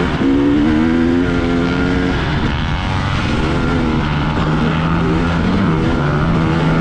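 Two-stroke dirt bike engine running on the trail, holding a steady pitch for about two seconds, then settling to a lower steady drone.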